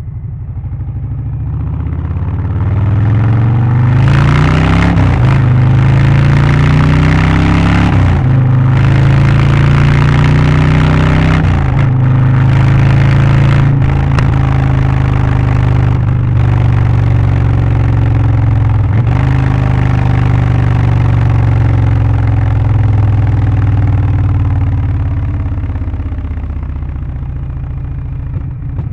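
Harley-Davidson Low Rider ST's Milwaukee-Eight 117 V-twin, Stage 1 tuned with an aftermarket exhaust, air filter and remap, accelerating through the gears. The note climbs and drops at each of about five upshifts, then settles and eases off near the end.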